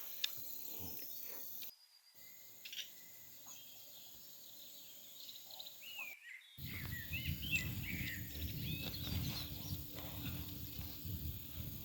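Outdoor rural ambience: birds chirping over a steady high insect drone, with a denser low rumbling noise in the second half. The sound drops out briefly twice, about two seconds in and again about six seconds in.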